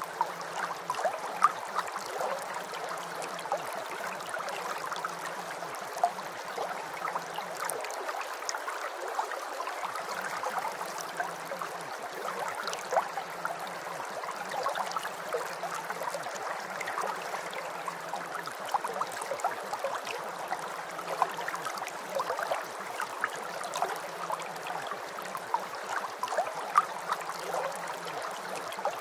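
Steady rain: an even hiss full of small, irregular droplet ticks.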